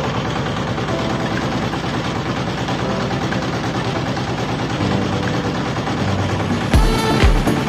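Boat engine running steadily with a fast, even low chugging. Near the end a heavy beat of background music comes in.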